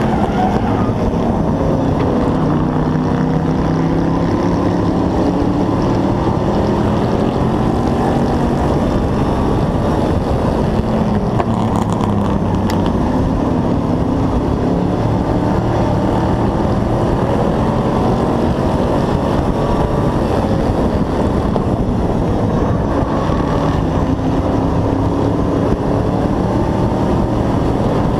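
Hobby-class race truck's engine heard from an onboard camera, running hard, its pitch swelling and dipping every few seconds as it revs through the corners, over steady wind and road noise.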